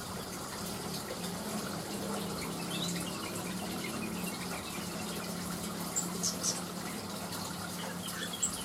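Steady rush of running water with a low hum under it. Over it come a few short, high bird chirps, several about two-thirds of the way through and one near the end, likely from a greater green leafbird (cucak wilis).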